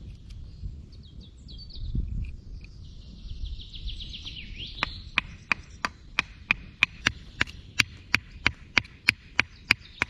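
Forest birds chirping, with a short trill. About halfway in, a run of sharp, evenly spaced ticks starts, about three a second, and carries on to the end.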